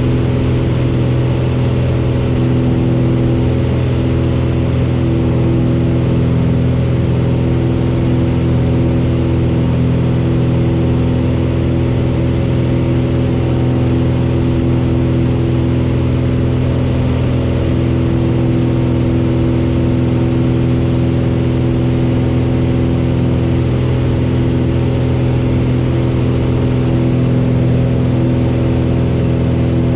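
Cessna 172's piston engine and propeller running steadily at an unchanging pitch.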